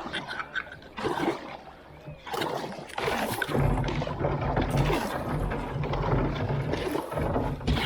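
Kayak paddle strokes splashing and dripping in creek water. About halfway in, a steady low rumble joins it.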